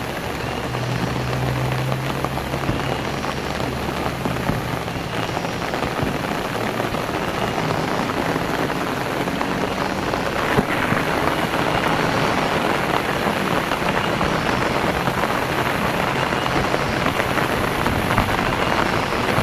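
Steady rain falling, a dense even hiss that grows a little heavier about halfway through. A low steady hum sits under the rain for the first few seconds and then fades.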